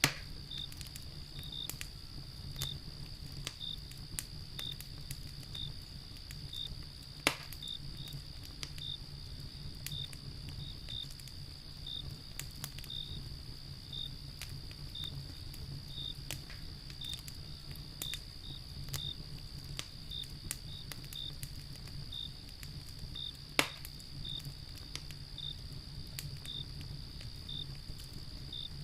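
Wood fire crackling with scattered small clicks and a few loud sharp pops, over a steady high insect trill and evenly spaced cricket chirps. The loudest pops come right at the start, about seven seconds in, and near the two-thirds mark.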